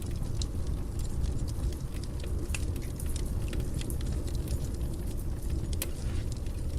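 Wood fire burning in a fireplace: a steady low rumble of the flames with frequent irregular crackles and pops from the burning wood.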